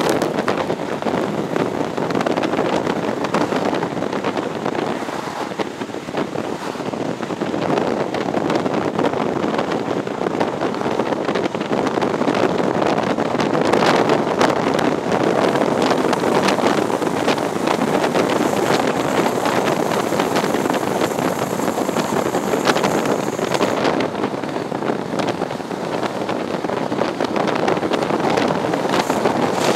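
Wind rushing past the open window of a High Speed Train running at speed, with the train's rumble underneath. A thin high whine joins for several seconds in the middle.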